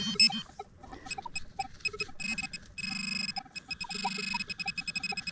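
Metal detector pinpointer probing a dig hole: rapid, uneven beeps and buzzing that come faster and run into a steady tone near the end as it homes in on a buried coin.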